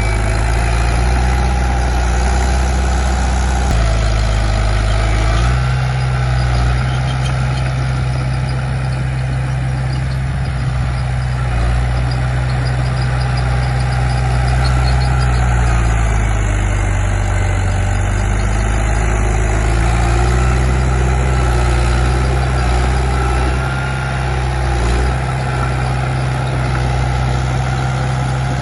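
Komatsu D31P bulldozer's diesel engine running continuously under changing load, its engine speed rising about five seconds in, sagging around the middle and picking up again later.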